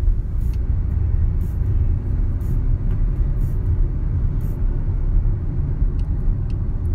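Steady low rumble of a car's engine and tyres on the road, heard from inside the moving car. Faint light clicks come about once a second for the first few seconds.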